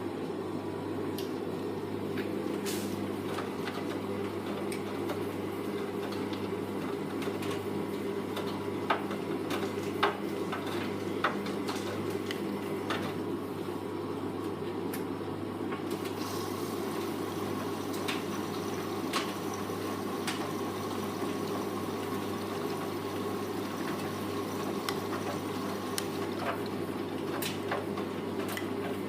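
Hoover Vision Tech VT 914 D22X washing machine early in a 40 °C mixed wash: a steady rush of water in the drum over a low hum, with a few sharp clicks, the loudest about ten seconds in.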